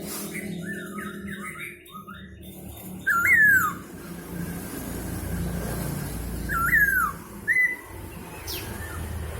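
Poksay hongkong laughingthrush calling: loud whistled notes that jump up and then slide down in pitch. Fainter notes come in the first two seconds, then one loud call about three seconds in and two more near seven seconds. A steady low rumble runs underneath.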